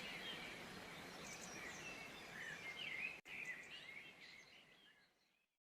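Many small birds chirping and twittering together in a dense chorus of quick high notes. It cuts out for an instant about three seconds in, then fades away before the end.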